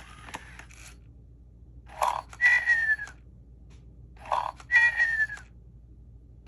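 FurReal Squawkers McCaw animatronic toy macaw making parrot calls through its built-in speaker: two squawks about two and a half seconds apart, each a short harsh burst followed by a slightly falling whistle-like tone, with a fainter sound at the very start.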